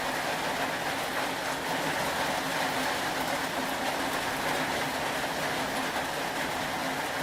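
Steady rain: an even, continuous hiss and patter with faint ticks, unchanging throughout.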